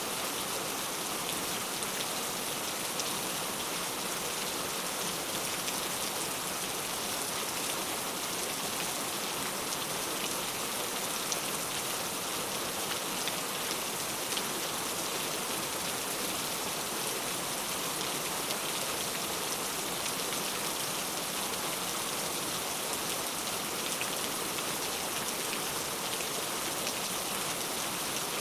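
Heavy rain falling steadily, a dense hiss of drops striking surfaces with fine patters throughout.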